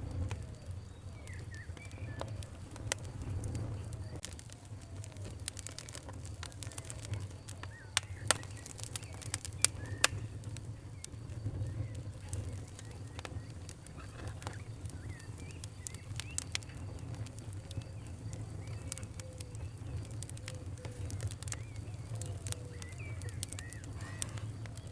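Wood fire crackling with scattered sharp pops over a low steady rumble. The loudest pops come about eight to ten seconds in. Birds call faintly in the background.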